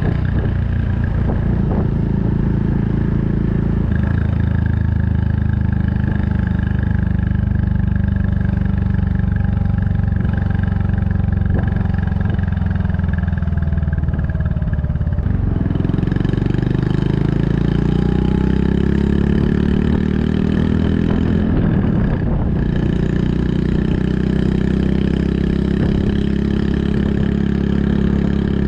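Honda Super Cub 110's single-cylinder four-stroke engine running under way through a Kitaco mini caborn aftermarket muffler. It holds a steady note, then about halfway through the note changes and climbs for several seconds as it accelerates.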